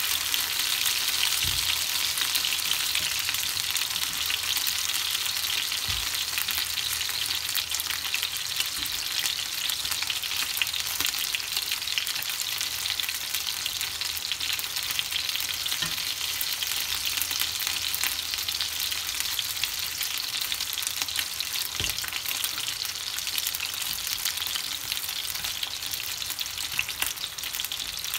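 Chicken wings sizzling steadily in hot oil in a nonstick frying pan, with a few soft knocks as chopsticks turn the pieces.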